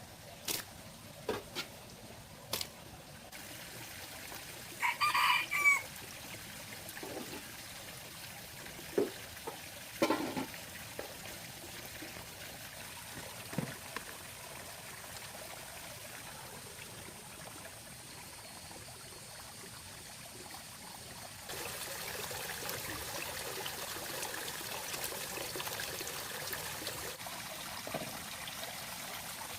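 A single loud bird call lasting about a second, about five seconds in, among scattered short clicks and knocks. A steady hiss comes in abruptly about two-thirds of the way through.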